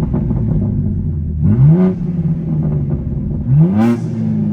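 BMW G82 M4's twin-turbo inline-six idling and revved in two short throttle blips, each rising and falling back to idle, heard from inside the cabin with the exhaust valves open through catless resonated downpipes and a single mid pipe.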